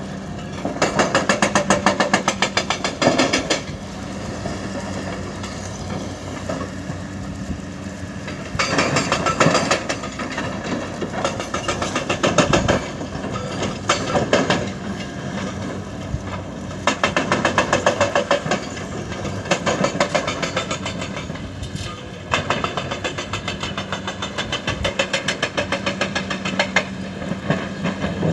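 Diesel engine of heavy earth-moving machinery running with a steady hum. It goes through several louder spells of fast, even pulsing.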